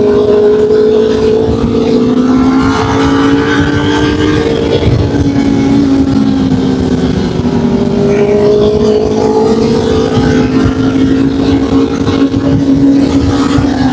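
Honda CB1000R inline-four motorcycle engine running under way at steady high revs, its pitch rising and falling gently with the throttle through the bends, with wind rush on the microphone.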